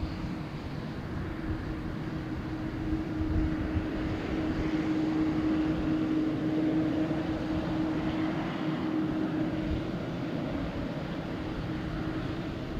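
A jet airliner's engines at takeoff thrust: a steady roar with a steady humming tone through it. The roar swells to its loudest in the middle and then eases slightly as the aircraft passes.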